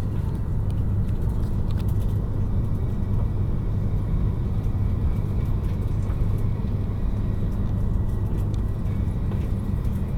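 Steady low rumble inside the passenger cabin of an E5 series Shinkansen train as it creeps slowly along a station platform, nearly at a stop.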